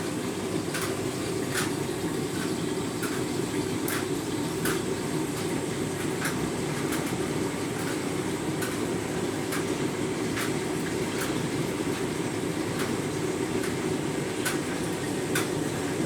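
Candy Grand'O Vita front-loading washing machine tumbling a half load in its deep-rinse cycle: water sloshing in the turning drum with a steady churning sound and light irregular clicks.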